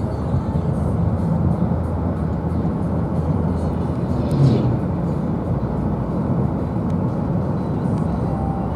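Steady road and engine noise of a car heard from inside the cabin while driving, with one brief louder noise about halfway through.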